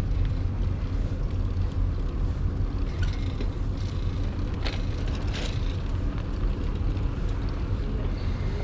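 Steady low rumble of wind buffeting the microphone on a moving bicycle, with two brief clicks about halfway through.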